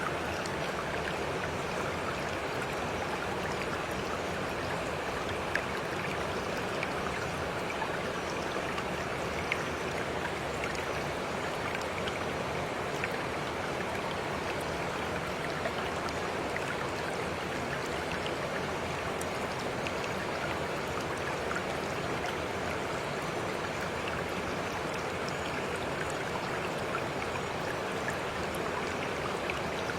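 Steady flowing water of a stream, an even rushing with a few small ticks and drips.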